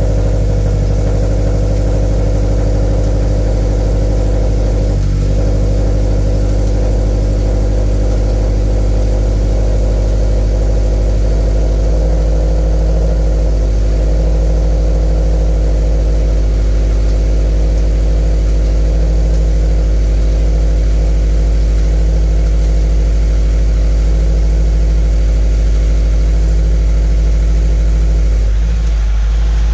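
Used replacement Subaru FA20 2.0-litre flat-four in a 2013 Scion FR-S idling steadily on its first run after the engine swap, with no knock or other odd noises. The idle note shifts slightly about twelve seconds in.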